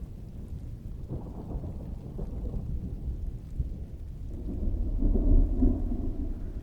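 Rolling thunder rumbling under steady rainfall, swelling about a second in and growing loudest near the end.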